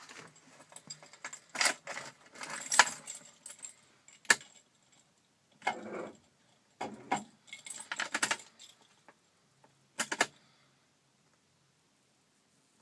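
Keys jangling and clicking in several short bursts with sharp clicks between them, stopping about ten seconds in.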